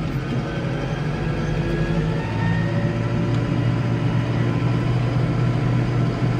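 Case 115U tractor engine running steadily under load while plowing snow; its low note grows a little stronger about two seconds in.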